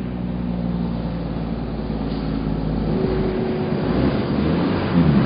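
Dump truck engine running steadily, its note changing about three seconds in.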